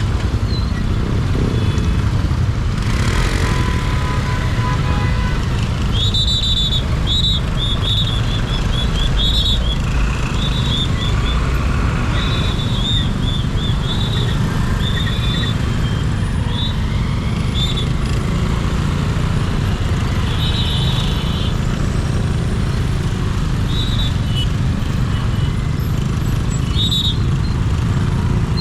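Riding a Benelli 150i motorcycle in city traffic: a steady low rumble of engine and wind on the microphone. Short high-pitched beeps sound again and again from about a fifth of the way in until near the end, some in quick runs of several.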